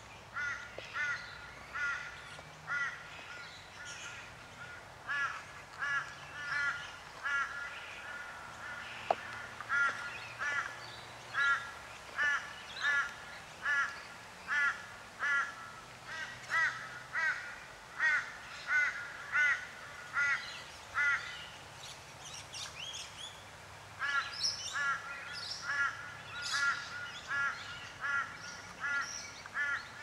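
A bird calling over and over: short, arched calls about two a second, in long runs broken by a few brief pauses.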